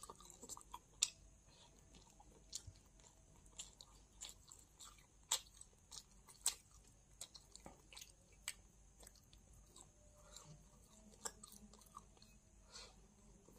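Close-miked eating: a person chewing with irregular wet mouth clicks and smacks, a few sharper ones standing out.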